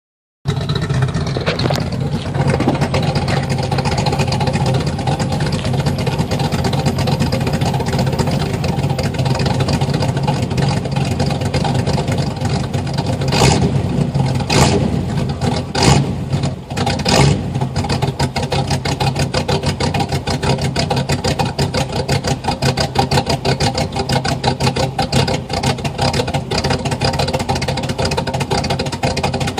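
Cammed Chevrolet 305 V8 of a 1982 Pontiac Trans Am, with ported heads, single-plane intake and custom exhaust, heard at the tailpipes idling with a loping cam idle. About halfway through it is blipped four times in quick succession, then settles back to the lope.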